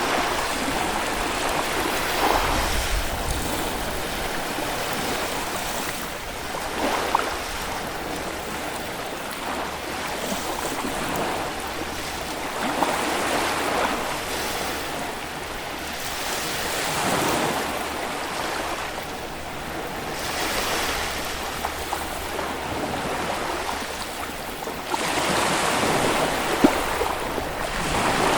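Small Baltic Sea waves breaking and washing up a sandy beach, a surge of surf every four to five seconds with a steady wash between.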